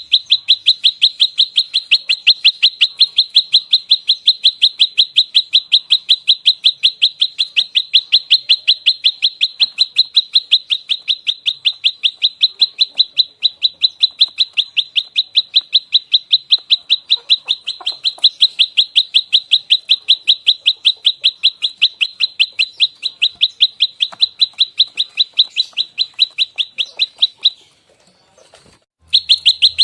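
Prenjak lumut's fighting call: one sharp high note repeated fast and evenly, about four or five a second, in a long unbroken string that stops near the end for a second or two and then starts again.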